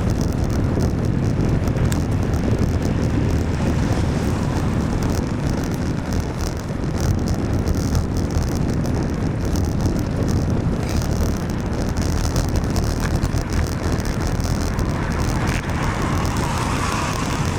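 Steady wind rumble on the microphone of a camera riding along on a bicycle, with road and traffic noise underneath, in the rain.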